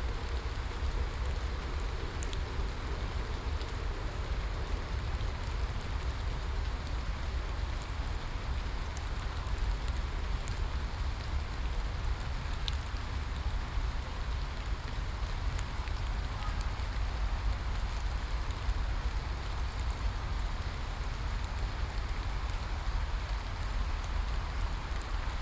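Steady rain falling, an even hiss with a deep low rumble underneath and faint scattered drop ticks.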